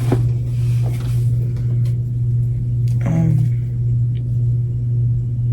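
A steady low hum runs throughout, with a brief pitched sound about three seconds in.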